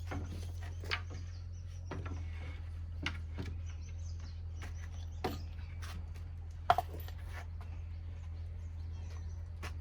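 Scattered light knocks and clicks at irregular intervals over a steady low hum, the loudest knock about seven seconds in.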